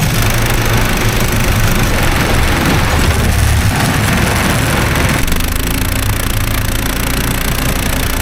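Small engine idling steadily after a cold start.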